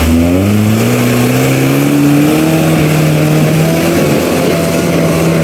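Suzuki off-road 4x4's engine revving up over the first couple of seconds and then holding at steady high revs under load.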